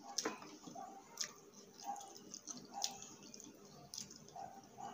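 Close-up wet chewing and mouth smacks from someone eating fried food, with a few small sharp clicks spread through.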